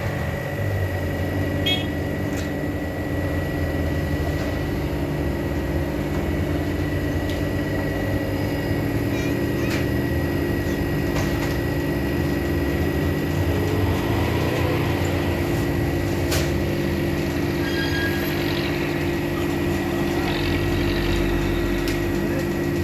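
A vehicle engine running at a steady speed, a constant low drone with a thin steady whine above it.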